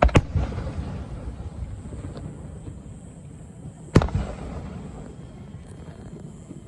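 Aerial fireworks shells bursting: a sharp double bang at the start and another loud bang about four seconds later, each followed by a rumbling echo that dies away.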